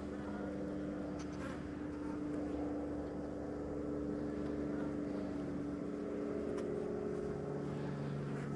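Honeybees buzzing around an opened hive: a steady droning hum of many wings, with a few held pitches that shift slightly.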